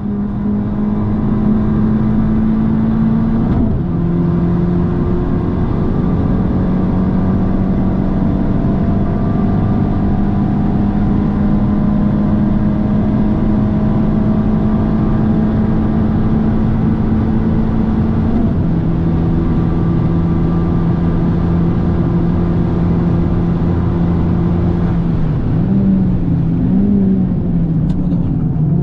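Abarth 595 Competizione's 1.4-litre turbocharged four-cylinder engine under full throttle, heard from inside the cabin, holding a steady high note with a small drop in pitch at gear changes about three and a half and eighteen seconds in. Near the end the pitch wavers up and down as the car brakes and shifts down.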